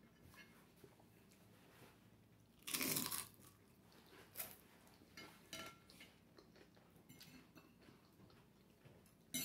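A crisp potato chip crunching as it is bitten, one loud crunch about three seconds in, then a few smaller crunches as it is chewed.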